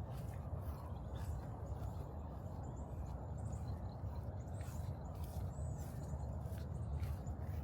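Outdoor trail ambience: a steady low wind rumble on the microphone, with irregular light crunching footsteps and a few faint high bird chirps.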